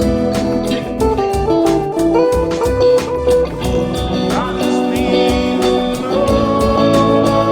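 Improvised band music led by a guitar, with pitched notes moving in short runs over a steady beat and one note bent upward about halfway through.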